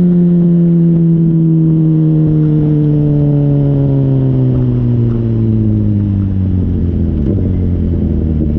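Honda CBR600RR inline-four running through a Yoshimura RS-5 exhaust, heard right at the muffler. Its note falls slowly and steadily as the revs drop.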